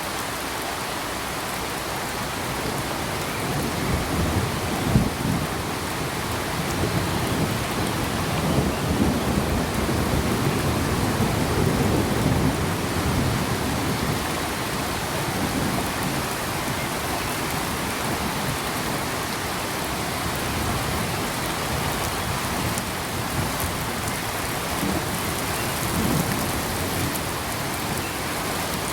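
Steady rain falling. Low rolling thunder rumbles through it, building a few seconds in and fading after about ten seconds, with a shorter rumble near the end.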